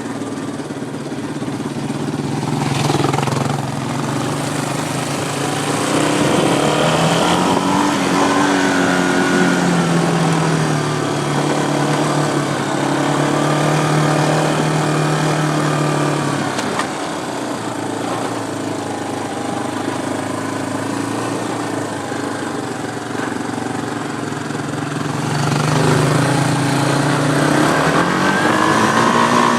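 ATV engine running, its pitch rising and falling as it speeds up and slows down, with a climb about eight seconds in and again near the end.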